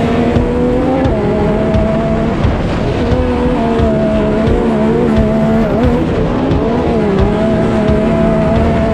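Off-road racing vehicle engine running hard at high revs. Its pitch holds fairly steady, then dips and rises as the throttle changes.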